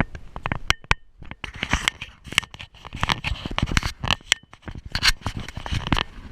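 Footsteps crunching and scraping irregularly on a dirt trail, close to the microphone, with rustling. A short high chirp about a second in.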